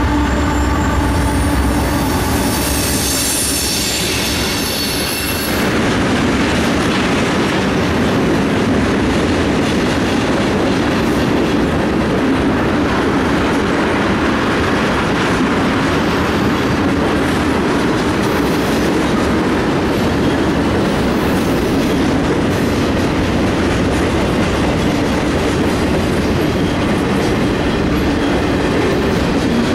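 Union Pacific diesel freight locomotive running past at the start, with a high wheel squeal about two to five seconds in. Then a long string of freight cars (tank cars, covered hoppers and boxcars) rolls by with steady rail noise and the clicking of wheels over rail joints.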